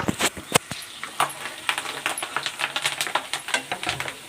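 Cashews and green chillies frying in hot oil in a pan, stirred with a spoon: irregular crackling and scraping clicks, with a loud knock of the spoon on the pan right at the start and another about half a second in.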